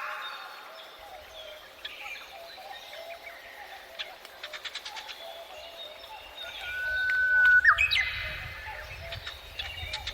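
Wild birds singing: clear whistled notes and quick upward sweeps, with a rapid run of ticking calls around the middle and a loud held whistle that jumps up in pitch near 8 seconds. A low rumble joins in the second half.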